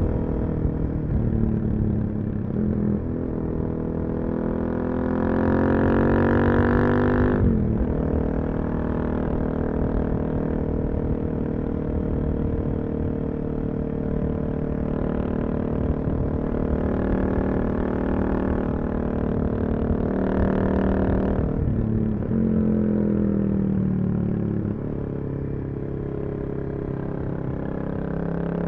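Suzuki DR-Z400SM's single-cylinder four-stroke engine through a full Yoshimura exhaust, under way. It pulls up through the revs, drops off sharply as the throttle closes about a quarter of the way in, then holds a steady cruise. About three quarters through, the pitch falls away as the bike slows, then climbs again near the end.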